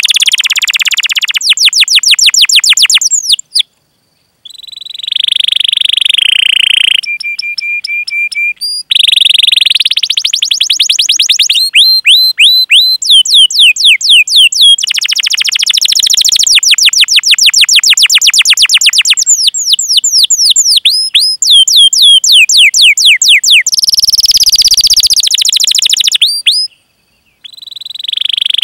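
Domestic canary singing a long, loud song: fast series of repeated high chirps and sweeping notes alternating with rolling trills, broken by a short pause about four seconds in and another near the end.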